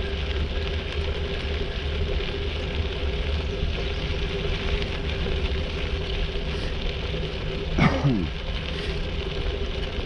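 Steady ride noise of a bicycle on a trail: wind buffeting the camera microphone with tyre rumble and a faint steady hum. About eight seconds in there is one short, louder sound that falls in pitch.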